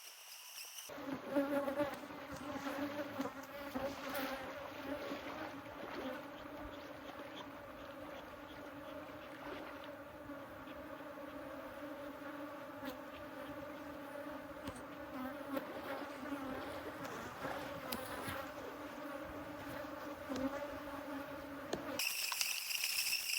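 Honeybees buzzing in a steady hum that cuts in abruptly about a second in and stops abruptly near the end.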